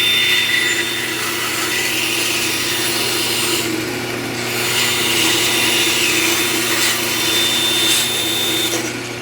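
Bandsaw running with a steady motor hum while its blade rips a thin strip from a small piece of wood. The cutting noise stops near the end while the motor keeps running.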